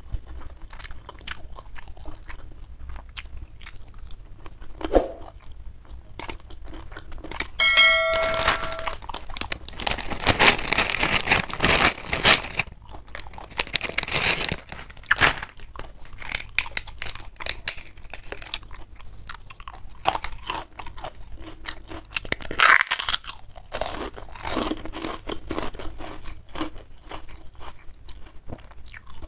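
Close-miked chewing and crunching of mouthfuls of food, with many small wet mouth clicks and denser bouts of crunching a third of the way in, again around the middle, and about three quarters of the way through.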